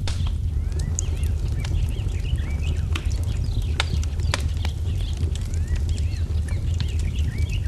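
Wood fire crackling with sharp pops, a few of them louder about three to four seconds in, over a steady low rumble. Small birds chirp over it in quick repeated calls.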